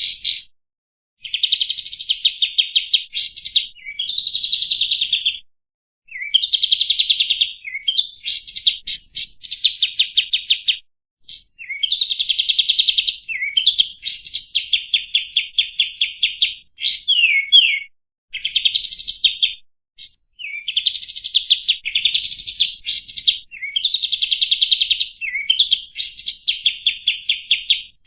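Kapas tembak songbird singing: fast, high chattering trills of many short repeated notes in phrases a second or two long, broken by brief pauses. Now and then a quick downward-sliding note occurs.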